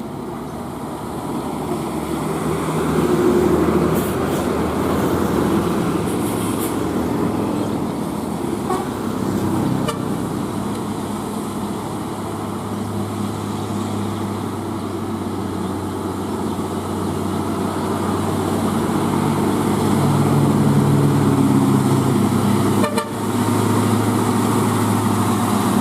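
Heavy vehicle engines, a bus and trucks, running in traffic, with horns honking.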